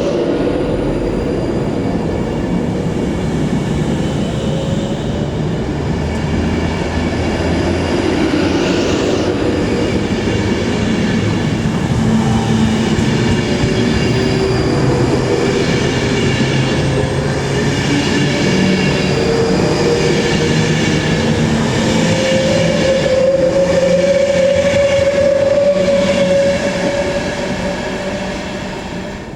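Avanti West Coast Pendolino (Class 390) electric train running on the rails: a steady rumble of wheels and running noise with a motor whine that rises slightly in pitch and gets louder in the second half, then eases off near the end.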